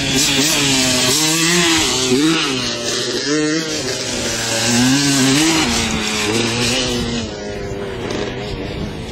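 Motocross dirt bike engine revving, its pitch climbing and dropping again and again as the throttle is worked; the sound eases off a little near the end.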